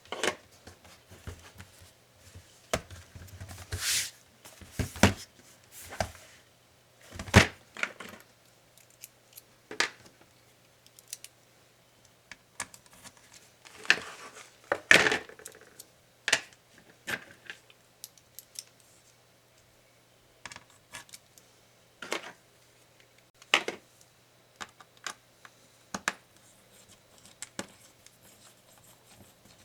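Irregular clicks, knocks and short scrapes from an Acer Swift SFX14-41G laptop and small tools being handled at the start of its disassembly. The sounds come in separate strokes a second or two apart, the loudest near the middle.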